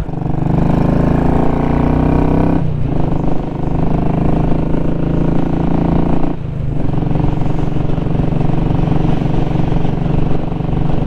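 2017 Royal Enfield Classic 500's single-cylinder engine running steadily under way, its exhaust without a baffle. The note dips briefly twice, about a quarter and about three fifths of the way through.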